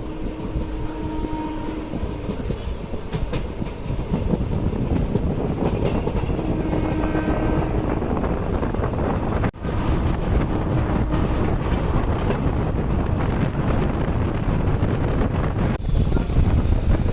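Passenger train running along the track: a continuous rumble of wheels on rail, with a few faint squealing tones coming and going and a momentary break about halfway.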